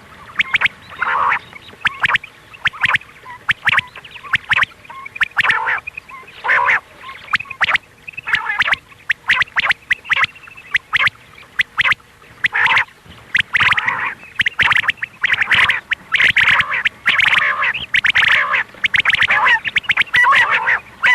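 Recorded quail calls, used as a hunting lure: a rapid run of short, sharp notes with chattering bursts, which grow longer and louder in the second half.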